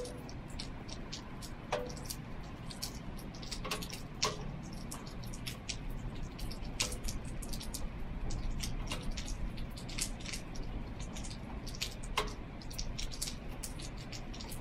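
Rainwater dripping: irregular drops, a few of them landing with a short pitched ring, over a steady low background noise.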